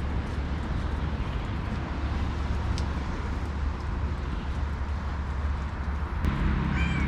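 Steady low rumble of city traffic, growing louder about six seconds in. Near the end comes a short, high call that bends in pitch.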